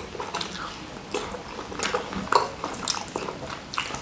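Close-up wet chewing of a mouthful of rice with salted squid sambal: irregular soft smacks and clicks of the mouth.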